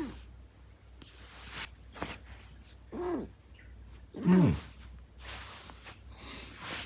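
Munchkin cat meowing: short meows that rise and fall in pitch, one ending right at the start, another about three seconds in, and the loudest just after four seconds.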